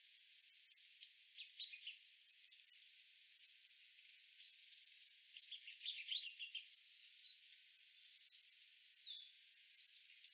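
Golden-crowned sparrows calling: scattered short, high chips, then a louder burst about six seconds in with a high whistled note, and a short falling whistle near the end.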